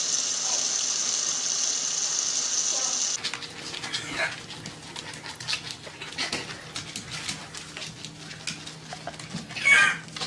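A steady hiss, like running water, that cuts off suddenly about three seconds in. Then come scattered light clicks and taps, and near the end a dog gives one short, high-pitched cry.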